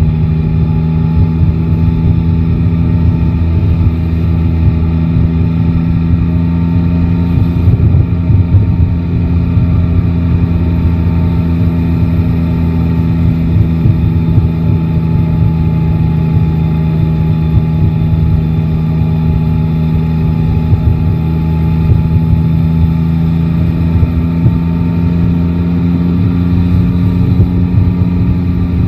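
Yamaha Tracer 9 GT's three-cylinder engine running at steady cruising revs under dense wind and road rumble. The engine pitch creeps up a little near the end.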